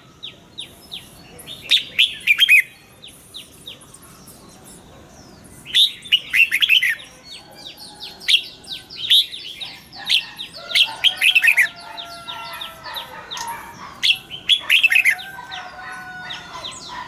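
Red-whiskered bulbul song: short bursts of fast, falling chirped notes, repeated every few seconds, with some lower, steadier whistled notes between the bursts.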